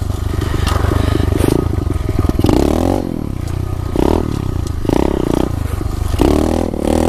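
SSR 125 pit bike's single-cylinder four-stroke engine being ridden, revving up and dropping back several times as the throttle is opened and closed.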